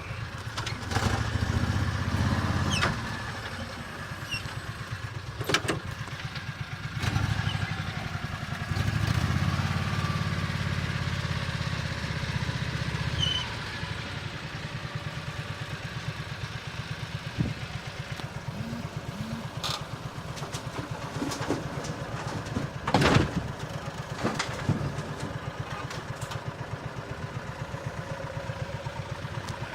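A small utility-vehicle engine running steadily near idle with a fast even pulse, picking up in level twice for a few seconds, with a few sharp knocks along the way.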